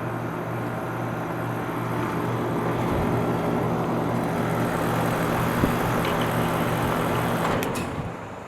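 Carrier Comfort Series 5-ton single-stage heat pump outdoor unit running with a steady compressor hum and fan noise. Near the end there are a couple of clicks and the unit dies away as it shuts off at the end of its cycle.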